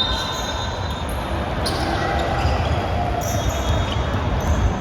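A basketball bouncing on an indoor court during a game, in an echoing gym with a steady background of crowd and player noise.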